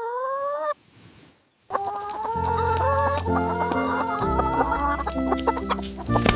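A chicken gives a short rising call. After a brief pause, soft background music with held notes and a slowly changing bass line starts about two seconds in, with chickens clucking over it.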